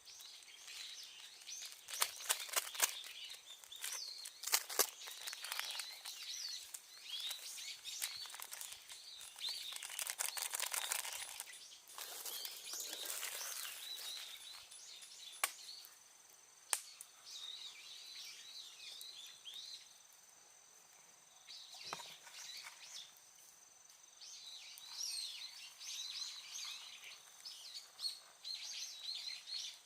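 Small birds chirping and twittering, with a few sharp clicks and snaps, loudest about two to five seconds in and again near 16 and 22 seconds, and a stretch of hissing noise around the middle.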